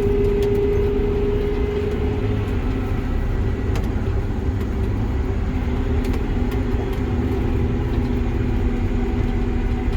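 Combine harvester engine running steadily under way on the road, a continuous low rumble with a steady hum whose highest tone eases about two seconds in.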